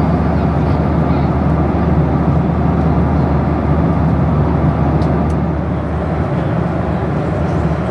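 Steady cabin noise of a Boeing 737-800 in flight: an even rush of engine and airflow noise over a constant low hum.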